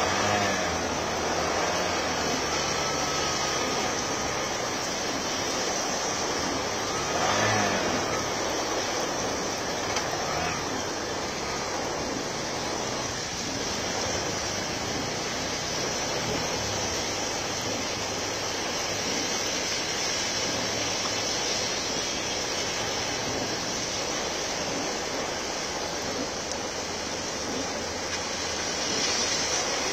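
Heavy rain falling steadily, with a brief louder swell about seven seconds in.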